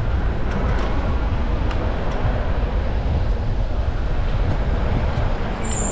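Wind buffeting the helmet or bike camera's microphone and rolling noise while riding an e-bike: a steady, loud rumble with a few faint ticks. A brief high squeal comes in just before the end.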